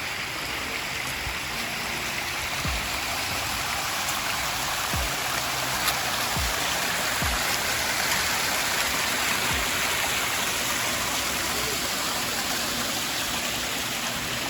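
Steady rush of a small stream and its waterfalls, the water running continuously over rocks.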